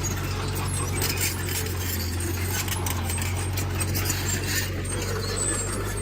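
Heavy earthmoving machine's diesel engine running steadily, with metallic clinking and rattling over it.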